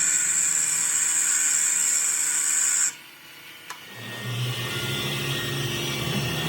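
A power tool running with a steady high-pitched whine, which cuts off suddenly about three seconds in. After a short lull and a single click, a low engine-like hum starts up.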